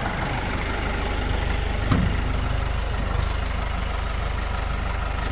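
Tractor diesel engine idling steadily while the loader bucket is being unhooked, with one brief knock about two seconds in.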